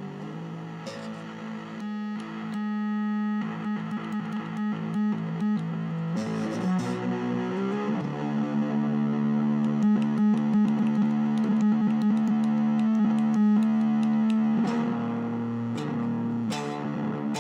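Electric guitar through a distortion pedal, holding notes that are repeatedly cut off and back on in quick stutters.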